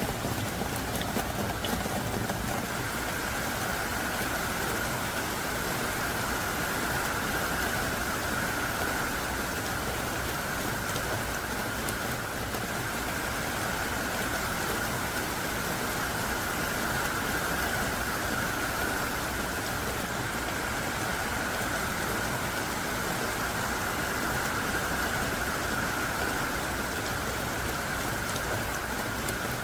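Heavy rain pouring down hard and without a break, a steady, even rush of water.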